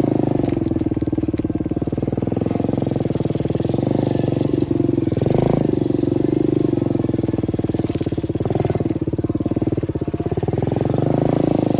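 125cc dirt bike engine running steadily under part throttle, its pitch rising and falling gently as the throttle changes.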